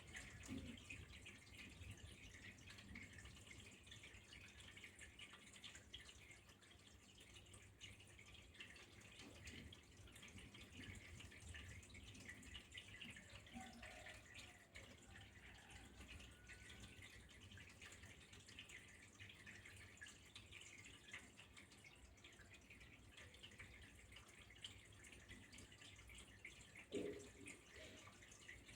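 Faint water trickling and dripping steadily, many small splashes close together, with a brief soft knock near the end.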